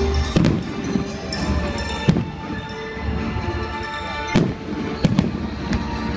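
Fireworks shells bursting in sharp bangs, five in about six seconds, two of them in quick succession near the end, over music playing throughout.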